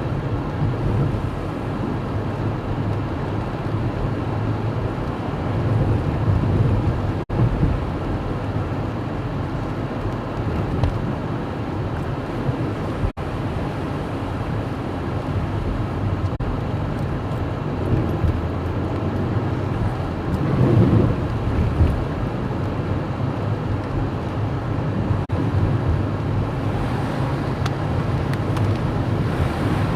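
Car driving, with a steady low engine and road noise heard from inside the cabin. Brief dropouts cut the sound three times.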